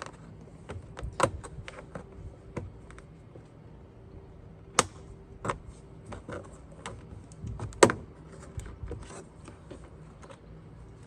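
Sharp plastic clicks and taps as a trim cover is pried off a car's interior door card with a tool, with two louder snaps about five and eight seconds in.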